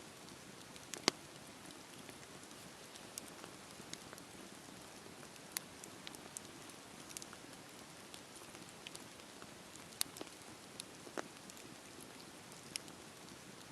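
Campfire burning: a soft, steady hiss of flames with irregular sharp pops and crackles from the burning wood, the loudest about a second in and about ten seconds in.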